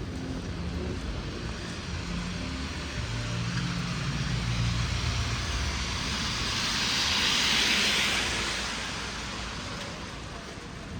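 A vehicle passing on a wet street: a low motor hum in the first half, then tyre hiss on wet pavement that swells to a peak about seven to eight seconds in and fades away, over steady rain.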